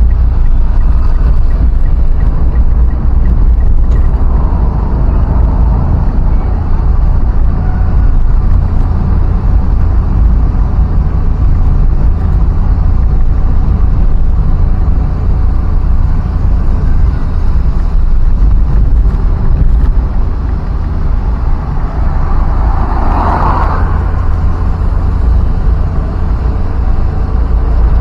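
A vehicle travelling through traffic: loud, steady road noise with a deep rumble. Another vehicle swells past for a second or two near the end.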